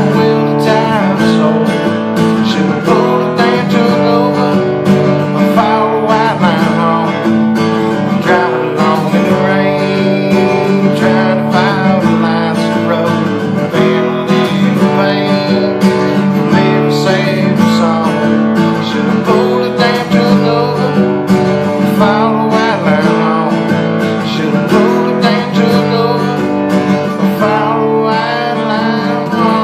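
Acoustic guitar playing an instrumental passage, strummed and plucked chords.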